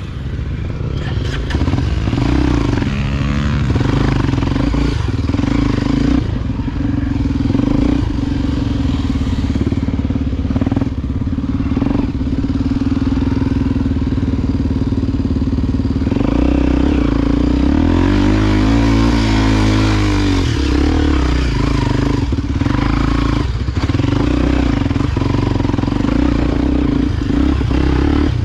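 Single-cylinder four-stroke engine of a Honda XR Tornado 293 enduro motorcycle running steadily on the trail. About two-thirds of the way through, its pitch dips and then climbs again for a few seconds as the throttle changes.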